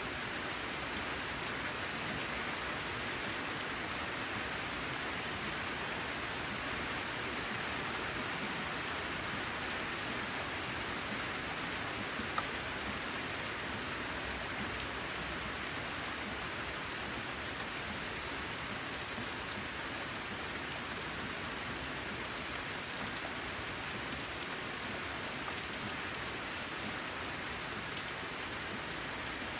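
Steady rain falling on a corrugated zinc sheet roof, an even hiss with a few louder single drops ticking, twice around the middle and twice near the end.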